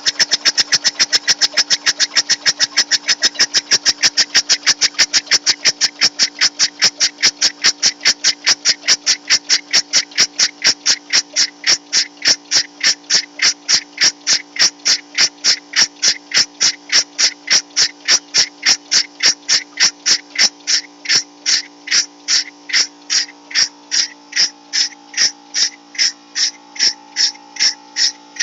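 Homemade steam traction engine's exhaust chuffing in an even beat that slows steadily, from about five chuffs a second to about two and a half, as the engine is run down to a slow speed.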